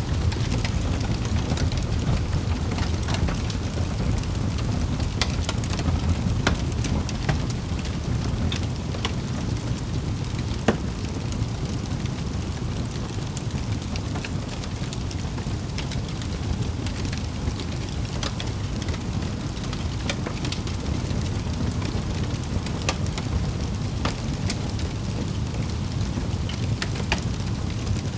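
Wood fire in a fireplace crackling: a steady low rumble of the flames with frequent sharp pops and snaps, one louder pop about eleven seconds in.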